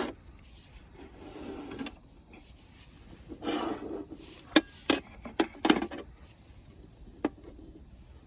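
Hands handling hard objects: two stretches of rubbing or scraping, then a quick run of sharp clicks and knocks, and one last knock near the end.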